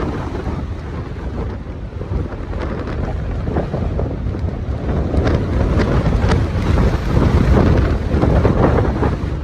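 Strong, gusty wind buffeting the microphone, rumbling low and growing louder in the second half, with a few light clicks.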